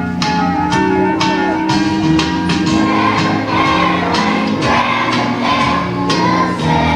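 A group of first-grade children singing together over an instrumental accompaniment with a steady beat. The singing is strongest from about three seconds in.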